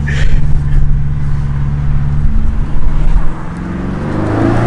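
BMW F90 M5's 4.4-litre twin-turbo V8 through a DunnFab straight catback exhaust, running steadily at low revs, then its pitch rising near the end as the car pulls away under throttle.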